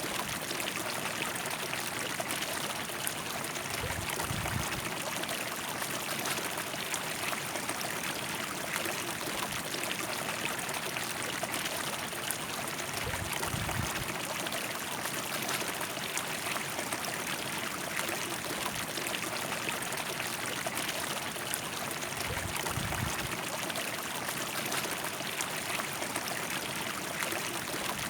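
River water flowing and rushing steadily over its bed, an even, unbroken wash. Three times a brief low rumble rises under it.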